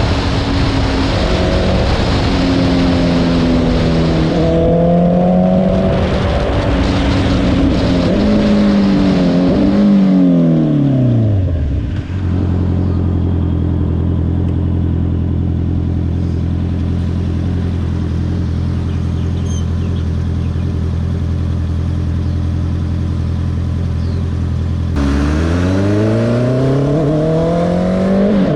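Honda CBR650R's inline-four engine under way, its pitch stepping and changing with the throttle, then dropping to a steady idle about twelve seconds in. It idles for about thirteen seconds before revving up again as the bike pulls away near the end.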